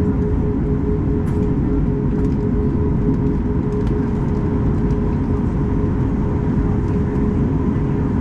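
Steady cabin noise inside a Boeing 737 MAX 8-200 on the ground: a constant low rumble with a steady mid-pitched whine, its level unchanging, as the jet taxis with its CFM LEAP-1B engines at low power.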